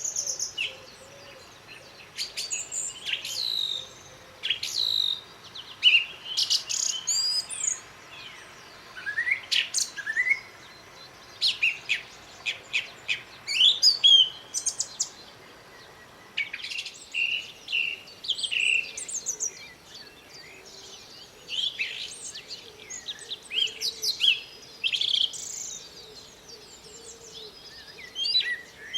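Common blackbird singing in short varied phrases with brief pauses between them, other songbirds chirping alongside.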